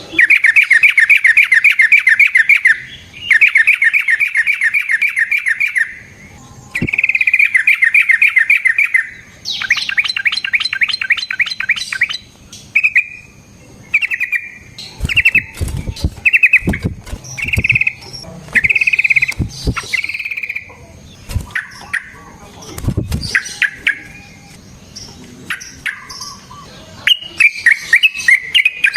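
Yellow-vented bulbul singing: several long, rapid rolling phrases at first, then a string of short separate notes, and quick chattering again near the end. A few sharp knocks come between the later notes.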